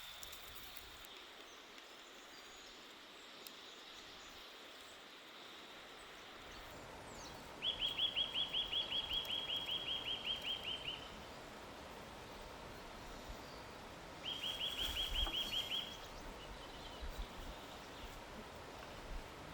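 A bird sings two rapid trills of evenly repeated high notes, about six a second: a longer one of about three seconds near the middle and a shorter one a few seconds later. A steady hiss of background noise runs beneath.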